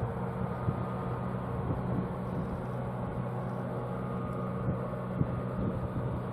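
Class 66 diesel locomotive's two-stroke V12 engine running with a steady, even note.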